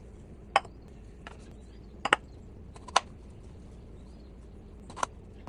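About six sharp clicks and taps of kitchen utensils at irregular intervals, two of them close together about two seconds in.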